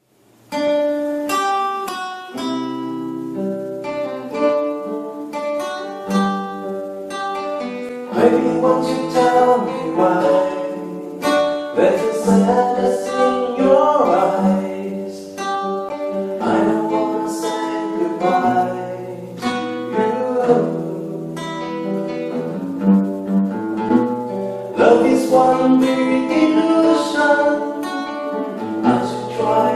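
Instrumental intro of a pop ballad played on acoustic guitar, plucked notes with sustained low accompaniment, growing fuller about eight seconds in.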